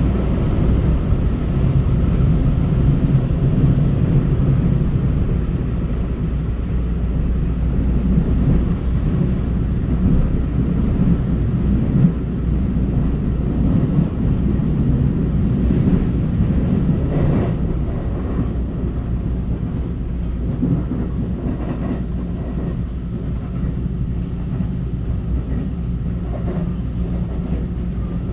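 Taiwan Railway EMU900 electric multiple-unit train running along the line with a steady low rumble. A faint high whine fades out in the first few seconds, and there is a single brief knock about twelve seconds in.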